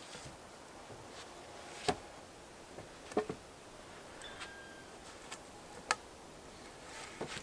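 Scattered sharp clicks and knocks, a handful over several seconds with the loudest two about 2 and 6 seconds in, over a faint steady hiss, with a brief faint squeak in the middle.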